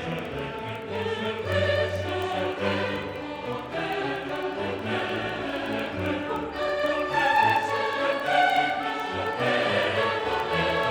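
Choral music with sung voices over an orchestral accompaniment.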